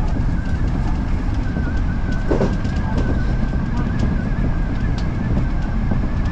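Odakyu Line electric commuter train running: a steady low rumble of wheels on rail, a held high whine, and scattered light clicks.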